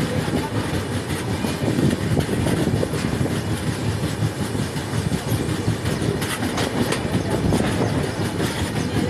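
Passenger train running along the track, heard from the coach doorway: a steady rumble of wheels on rails, with a few short clacks about six seconds in and again near the end.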